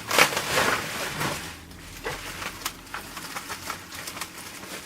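Packaging wrap rustling and crinkling as a parcel is unwrapped by hand, loudest in the first second or so, then quieter scattered crackles and clicks.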